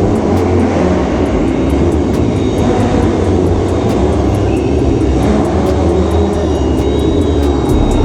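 Kawasaki ZX-6R sport bike's inline-four engine running steadily and loud.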